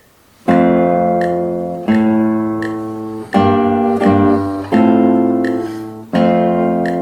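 Acoustic guitar playing a slow passage of struck chords, about one every second and a half, each left to ring and die away before the next.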